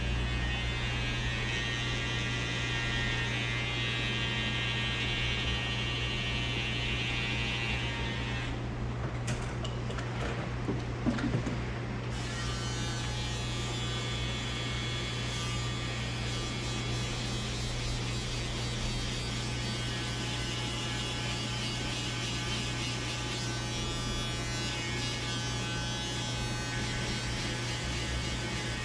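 Electric hair clippers buzzing steadily while cutting a fade. The buzz changes briefly about a third of the way in, with a few light knocks.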